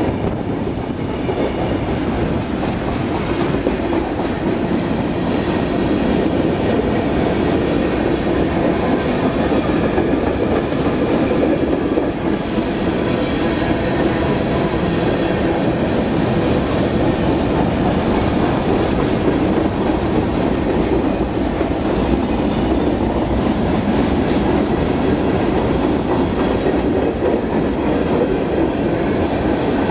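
Freight cars of a passing CSX freight train rolling by close at hand: a steady rumble of steel wheels running on the rails that holds even throughout.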